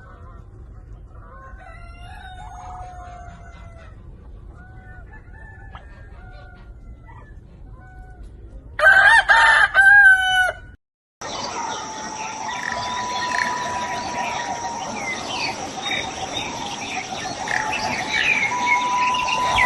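Chickens clucking faintly, then a rooster crowing loudly about nine seconds in. After a sudden cut, a busier noisy mix with many short chirps over a steady tone.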